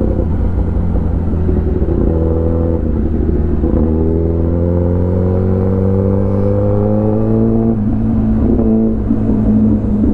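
Kawasaki ZX10R inline-four with an Arrow full exhaust system, heard from the rider's helmet while riding. The engine note climbs slowly for several seconds, then breaks off about eight seconds in and settles to a steady pitch.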